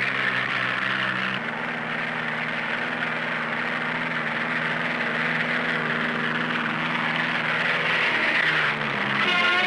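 Propeller aircraft engine droning steadily in flight, with a shift in pitch about a second and a half in, heard through the hiss of an old film soundtrack.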